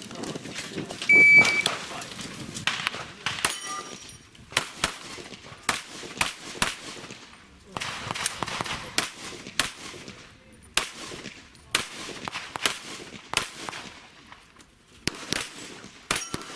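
A shot timer's beep about a second in, then a stage run of handgun shots fired in quick pairs and short strings, with brief gaps between strings.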